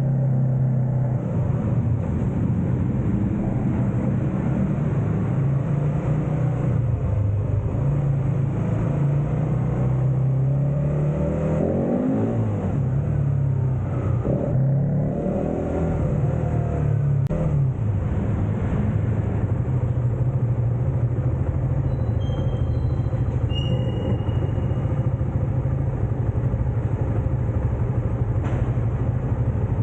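Suzuki GSX-S150's single-cylinder engine running at a steady pitch, with the pitch rising and falling several times around the middle as the throttle changes.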